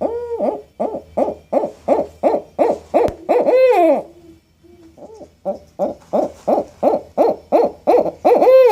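An owl calling: a rapid run of short hoots, about three or four a second, that ends in a longer, louder drawn-out call. The pattern comes twice, with a brief pause between.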